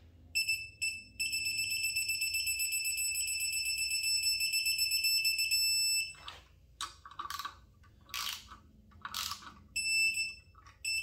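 Digital torque wrench beeping a steady high tone as the bolt reaches its 15 ft-lb setting: a short beep, then one long beep of about five seconds, then two short beeps near the end. Scattered clicks of the wrench working the bolt come between the beeps.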